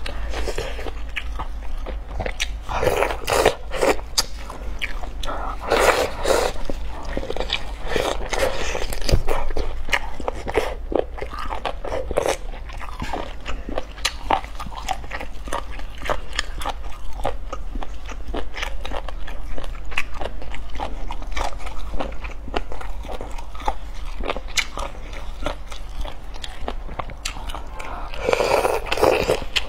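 Close-up mouth sounds of biting and chewing tough tripe coated in sesame paste: wet smacking and crisp crunchy clicks, with louder clusters of bites every few seconds. A low steady hum sits underneath.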